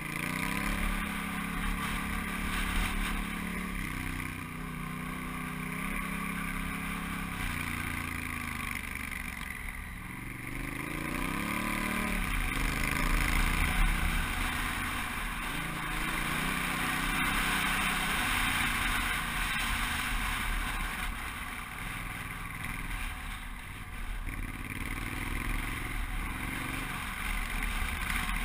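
Honda Africa Twin's parallel-twin engine pulling the bike along a dirt trail, its pitch rising and falling with the throttle, dipping about a third of the way in and then climbing again. A steady rushing noise of wind runs underneath.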